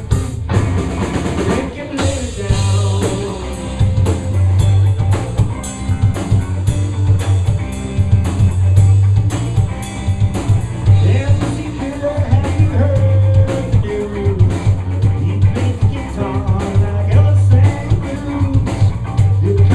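Live blues band playing: drum kit with rimshots, electric guitar and bass.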